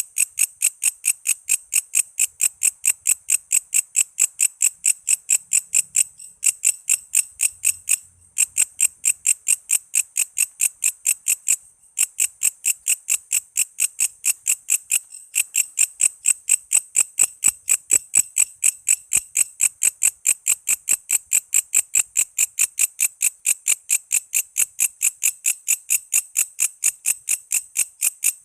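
A walang kece katydid singing a steady run of short, high, evenly spaced chirps, about four a second, broken by a few brief pauses.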